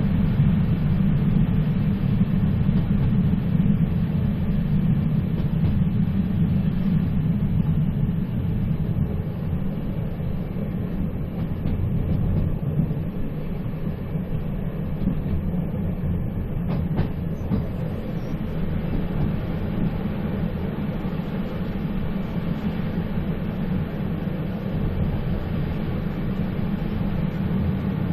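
Moving train running steadily: a continuous rumble, heaviest in the low end, with a faint short click about seventeen seconds in.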